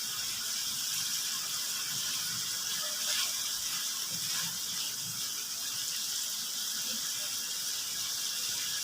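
Thin-sliced liver frying in hot oil in a pan: a steady sizzle.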